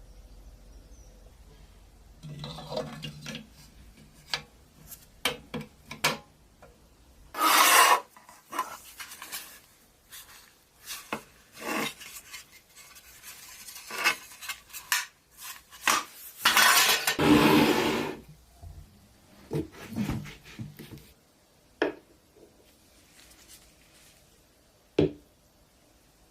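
Metal parts of a pressed-steel toy truck being worked by hand: irregular clinks and knocks, with a few longer scraping or rubbing strokes, the longest about a second and a half.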